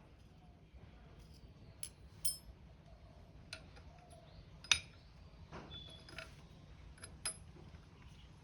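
Scattered light metal clinks and taps, irregular and spaced out, the loudest a little past the middle, over a low steady hum.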